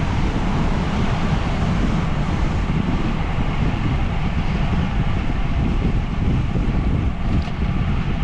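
Wind buffeting the microphone of a camera on a moving bicycle: a steady low rumble with no breaks.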